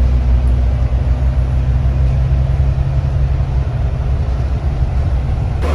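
A loud, steady low mechanical rumble with a constant hum, which shifts abruptly just at the end.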